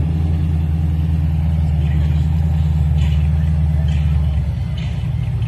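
LSA-swapped 1996 Chevrolet Impala SS's supercharged V8 running steadily at low revs near the drag strip's starting line; the deep engine note eases somewhat about four and a half seconds in.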